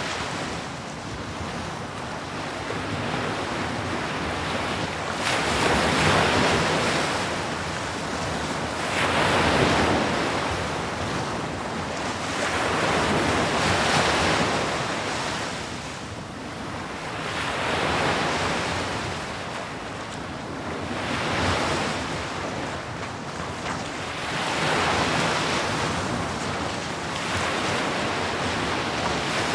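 Ocean waves breaking on a shore. The surf swells and falls about every four seconds, with a steady wash in between.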